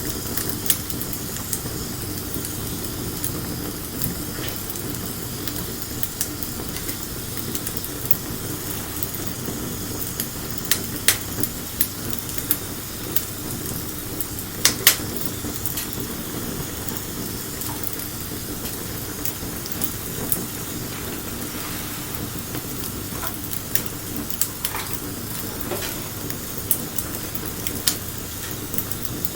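Wood fire burning: a steady hiss with irregular sharp crackles and pops, a few louder pops around the middle.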